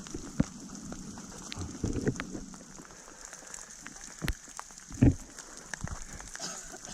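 Rain falling, with drops landing in scattered sharp taps and a few heavier thuds, the loudest about five seconds in.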